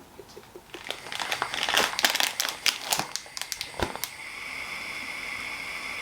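Crinkling and crackling for about three seconds, with a sharp knock near the end of it. About four seconds in, a steady sizzle of food frying in a pan takes over.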